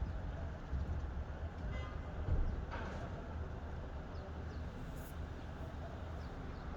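Steady low outdoor rumble, with a few faint short high chirps of birds over it and a brief knock about three seconds in.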